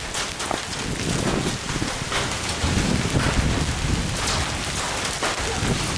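Heavy rain and hail from a supercell thunderstorm pouring down, with frequent sharp clicks of hailstones striking, over a low gusty rumble.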